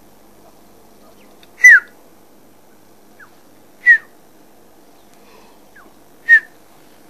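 A bird calling: a short, clear whistled note that slides down in pitch, given three times about two seconds apart, with fainter answering notes between.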